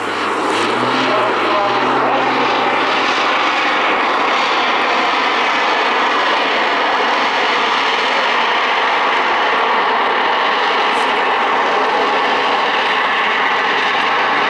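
Jet-assisted Pitts biplane flying a display pass, its piston engine and propeller together with its small jet engines running at high power in a loud, steady rush of engine noise.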